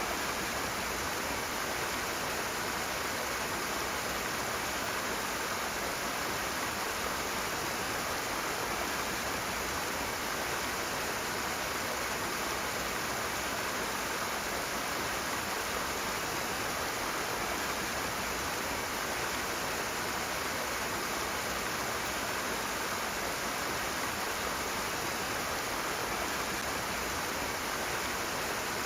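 Rushing water, a fast stream or small waterfall, making a steady, even hiss with no change.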